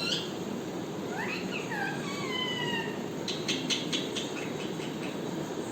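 Pet parrot calling: a few calls that slide up and then fall in pitch, followed about three seconds in by a quick run of short, sharp clicks.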